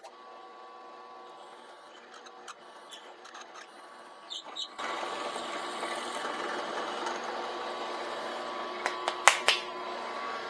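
A power tool's electric motor running with a steady whine, growing louder about five seconds in, with a few sharp clicks near the end.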